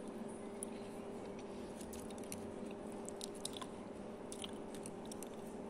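Someone chewing soft cooked pumpkin, faint, with scattered small wet mouth clicks. A low steady hum runs underneath.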